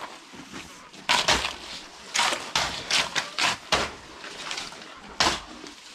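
About seven short scraping or scuffing strokes, irregularly spaced, with gaps of quieter background between them.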